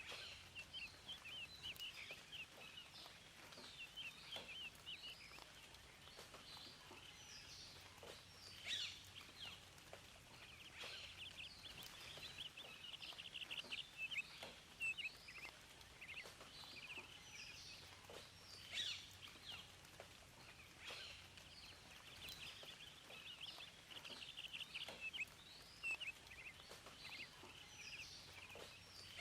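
Small birds chirping and twittering, many quick high chirps overlapping without a break, over a faint steady background hiss.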